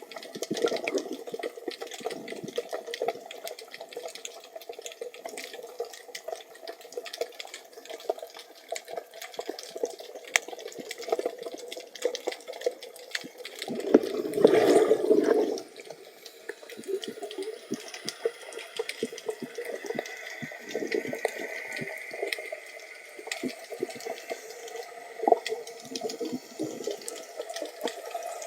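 Underwater sound as heard by a camera in its housing: a steady crackle of many small clicks, with a louder watery rush about halfway through that lasts about two seconds.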